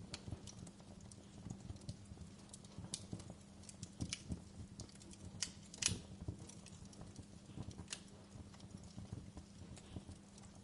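Wood fire in a fireplace crackling, with irregular sharp pops and snaps of burning wood, the loudest about six seconds in, over a faint steady hum.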